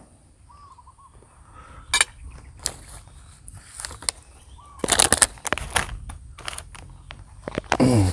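Eating sounds of someone working through instant noodles: sharp clicks and short noisy mouth bursts, thickest about five seconds in, with a short sound falling in pitch near the end. Faint bird chirps sound in the background.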